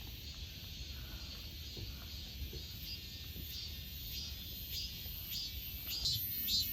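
Repeated short high chirps, about two or three a second, growing louder in the second half, over a low rumble like wind on the microphone.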